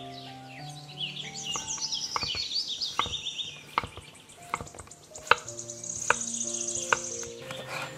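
Kitchen knife slicing a green bell pepper on a wooden cutting board: a series of sharp knocks of the blade on the board, about one a second from about three seconds in.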